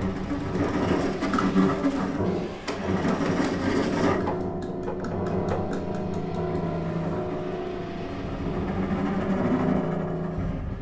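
Contemporary chamber ensemble of violin, flute, clarinet, piano, cello and percussion playing a dense layer of held notes. About four seconds in, a quick series of sharp clicks joins it and fades out a few seconds later.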